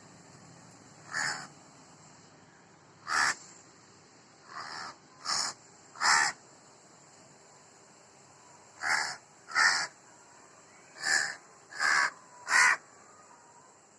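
A crow cawing repeatedly: about ten short, harsh caws, several coming in quick runs of two or three.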